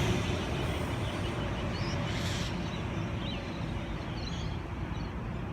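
Sydney Trains Oscar (H-set) electric train that has just run through the station, its low rumble fading as it recedes, with a short hiss about two seconds in. A few faint bird chirps sound over it.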